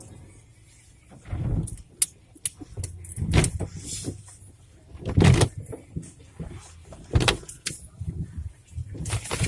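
Automatic car wash equipment hitting the car body, heard from inside the car: a series of thuds and swishes, roughly every two seconds, over a low rumble.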